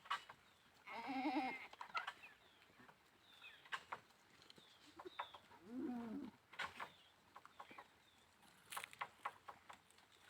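Goats bleating: a quavering bleat about a second in and a shorter, lower bleat around six seconds, with scattered short chirps and sharp clicks between them.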